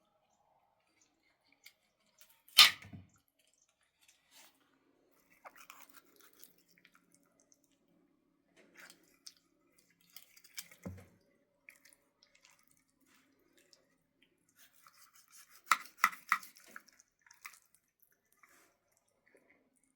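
Scattered knocks and clinks of objects being handled: one sharp knock about two and a half seconds in, a dull thump near the middle, and a quick run of clicks a little past three quarters of the way through.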